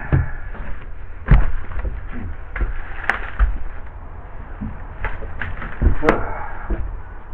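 Irregular knocks and taps from hands and tools working on the boat's hull, a few sharper hits among them, over a steady low rumble.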